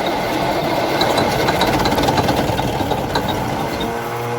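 Engine of a long-dormant International truck cranking on its starter, ether sprayed in, turning over rough and uneven as it tries to fire.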